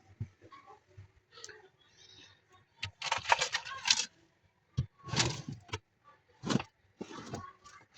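Built-up ice being scraped and knocked loose from a switched-off fridge. It comes as a few bursts of scraping and clattering, the loudest between about three and four seconds in, after some quieter small clicks.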